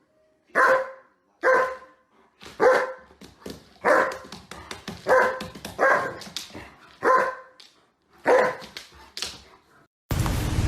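A dog barking repeatedly, about one bark a second, nine barks in all. About ten seconds in, the barking cuts off and a steady hiss takes over.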